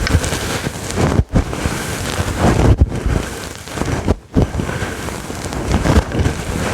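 Aggressive scratching on a fluffy microphone cover, heard right at the mic as a loud, dense scratchy rustle. It breaks off briefly about every second and a half.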